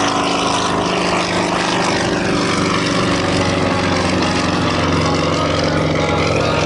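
Sukhoi Su-26M aerobatic plane's propeller and nine-cylinder M-14P radial engine running steadily at takeoff power, loud and even.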